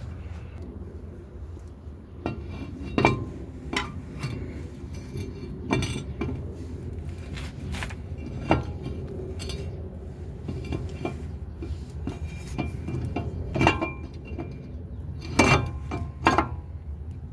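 Metal tools and brake parts clinking and knocking against each other in irregular single strikes, the loudest about three seconds in and a few close together near the end, over a steady low hum.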